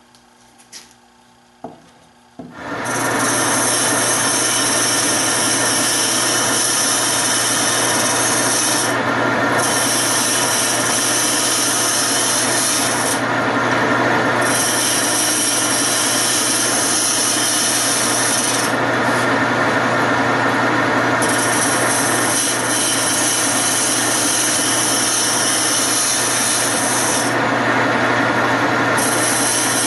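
A wood lathe starts up about three seconds in and runs with a steady motor hum. A turning tool scrapes into the spinning wooden blank for a chair leg, and the high rasp of the cut eases off briefly a few times and comes back.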